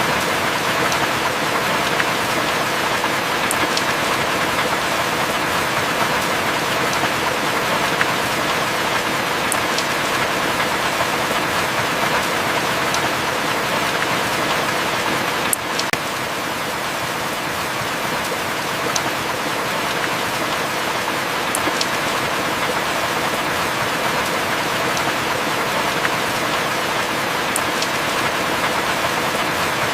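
Steady heavy rain, with scattered sharp drip ticks. A louder click comes about halfway through, after which the rain is slightly quieter.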